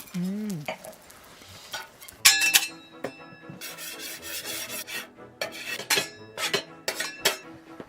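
Metal utensils clinking and scraping against pans and dishes: a few sharp knocks, a longer scrape, then a quick run of clinks. A short hum of voice comes at the very start.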